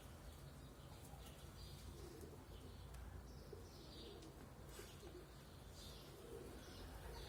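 Pigeons cooing faintly, soft low coos repeating every second or two, with a few short higher chirps among them.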